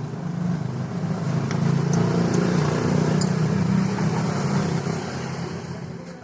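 A motor vehicle's engine nearby, swelling over the first couple of seconds, holding, then fading away toward the end, like a vehicle passing by. A few faint light ticks sound over it.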